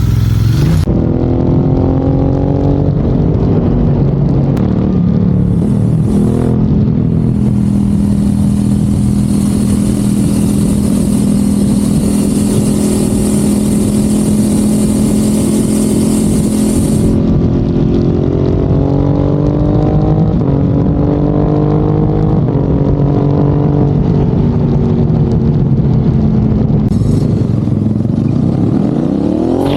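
Ducati Hypermotard 1100S's air-cooled L-twin engine idling steadily after a cold start, its pitch drifting slightly, then rising into a rev right at the end.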